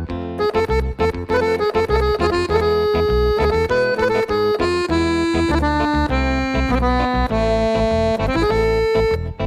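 Korg Pa5X arranger keyboard playing a soloed MIDI intro melody on a custom accordion sound: a run of accordion notes that steps down in pitch through the middle, then rises to a held note near the end, over a pulsing low bass.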